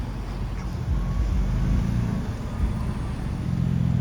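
Car engine running with a low, steady rumble.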